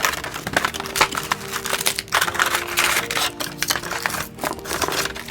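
Toy packaging (cardboard box and plastic wrapping) rustling and crinkling with irregular small clicks as it is opened and the pieces handled, over soft background music.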